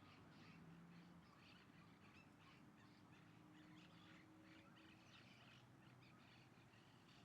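Faint birds calling: many short chirps repeating throughout, over a faint low steady hum.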